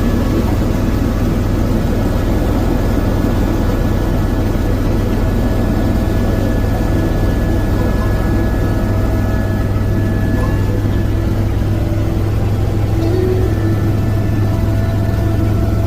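Tour helicopter in steady flight, heard from inside the cabin: a constant low engine and rotor drone with a few faint steady whining tones above it.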